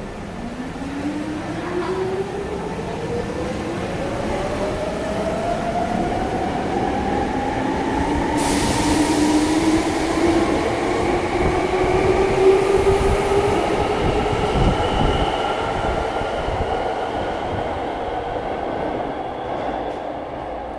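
Hankyu Railway electric train accelerating, its traction motors whining in several tones that rise steadily in pitch over a running rumble, loudest a little past the middle.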